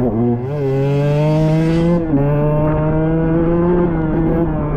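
KTM 125XC two-stroke dirt bike engine revving under load, climbing in pitch, with a brief dip about two seconds in before it holds high revs again.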